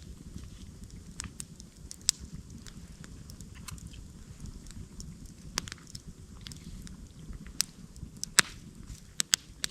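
Wood campfire crackling: irregular sharp pops over a low steady rumble, the loudest pop a little after eight seconds in.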